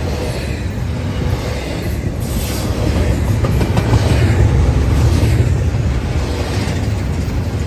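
Intermodal freight train rolling past: a steady, loud low rumble of wheels on rail with a faint clickety-clack of wheels over rail joints.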